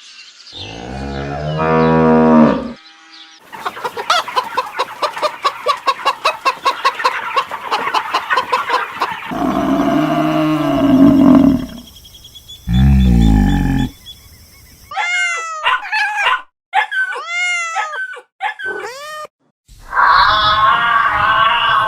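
A quick run of different animal calls, one clip after another. They include low, drawn-out lowing calls like cattle mooing, a long fast-pulsing call, and a series of short, high, arching squeaks.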